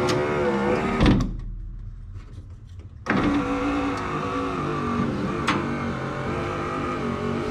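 Mazda RX-7 (FC3S) power window motor driving the glass, stopping with a thump about a second in as it reaches the end of its travel, then running again for over four seconds. The windows are working on their newly repaired switches.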